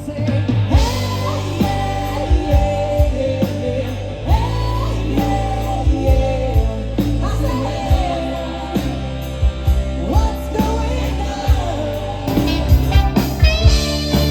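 Live rock band playing: a steady drum beat and bass under a lead melody line with repeated rising bends in pitch.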